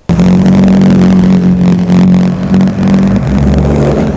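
McLaren sports car's engine running loud and steady as the car drives past, its note easing a little near the end.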